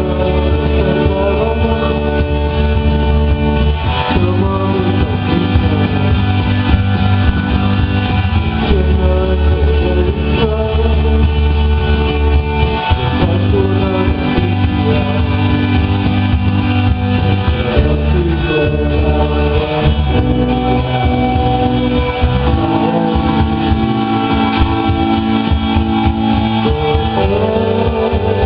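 Live rock band playing: electric guitar, bass, drums and synthesizer, with a voice singing over it. The chords change every several seconds over a heavy, steady low end.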